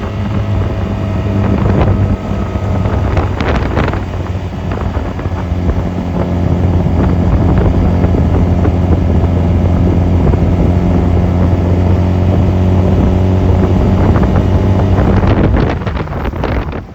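Honda 250cc motorcycle engine running while riding, with wind noise on the microphone. The engine holds a steady note through the middle, then drops off and quietens near the end.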